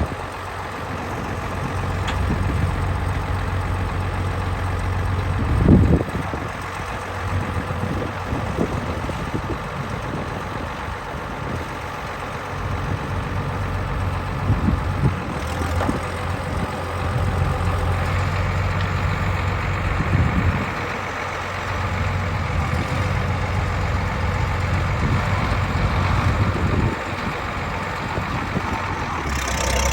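IHC 706 tractor engine running steadily at idle, a low, even hum with small changes in level.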